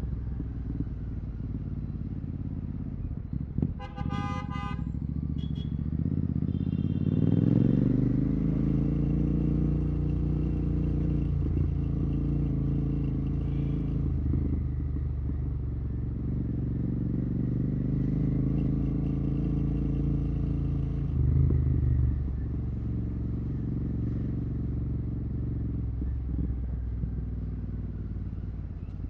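Royal Enfield Continental GT 650's 648 cc parallel-twin engine running through a Red Rooster aftermarket exhaust with no dB killer. The note climbs as the bike pulls away about seven seconds in, holds steady, surges briefly about three-quarters through and then eases off. A short vehicle horn honks about four seconds in.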